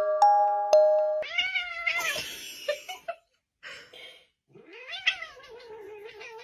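A cat giving two long, drawn-out meows, each bending up and down in pitch, the second trailing off into a long held note. A few struck glockenspiel-like music notes ring out before the first meow.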